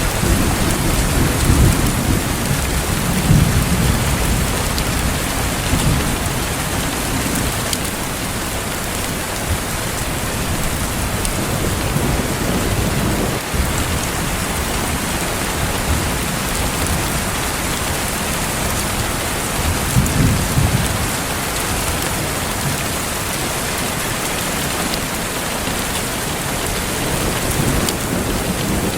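Steady rain falling, with low rumbles of distant thunder swelling in the first few seconds and again about two-thirds of the way through.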